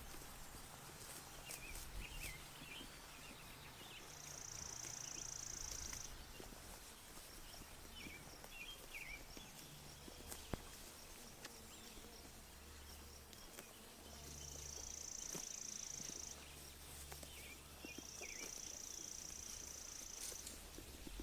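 Sheep pasture ambience: scattered soft clicks and tearing of sheep grazing and chewing grass, with short bird chirps now and then. Three times a high, steady buzzing trill lasts about two seconds. A low rumble comes and goes beneath.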